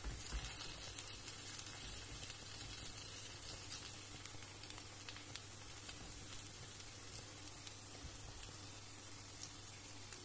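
Grated potato and carrot fritters sizzling in oil in a frying pan, a steady gentle hiss with small crackles, slightly louder just after the start.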